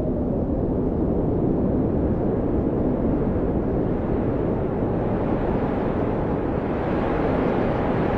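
Blizzard wind howling steadily, a deep rushing noise that grows stronger and brighter near the end as a gust builds.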